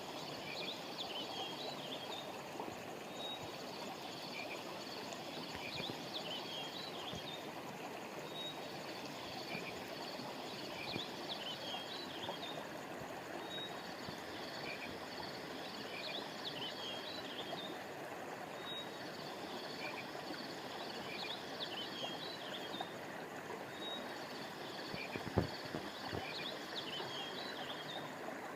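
Steady rushing of a flowing stream, with clusters of short, high chirping calls from small animals recurring every few seconds in a regular pattern. A single brief low thump about 25 seconds in.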